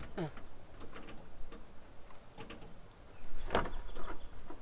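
Bird calls: a short falling call right at the start, then a louder call about three and a half seconds in.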